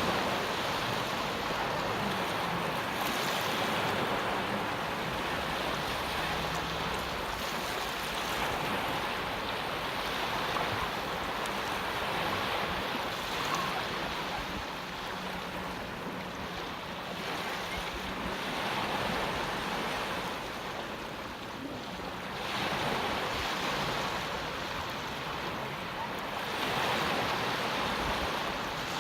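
Sea surf washing onto the shore: a steady rush of water noise that swells and eases every few seconds as the waves come in.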